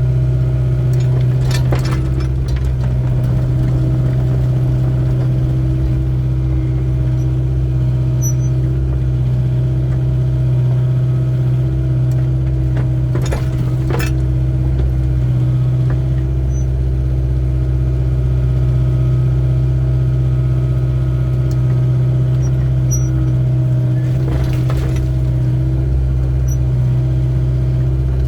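Excavator engine running steadily under digging work, with a few brief clanks spread through, about two seconds in, around thirteen seconds and near twenty-five seconds.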